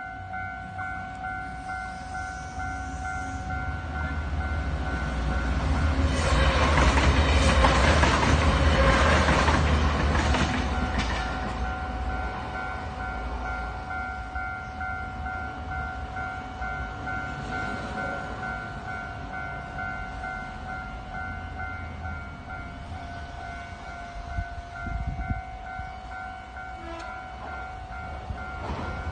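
A train running through a level crossing, loudest from about 6 to 11 seconds in and then fading, over the crossing's electronic warning bell ringing steadily.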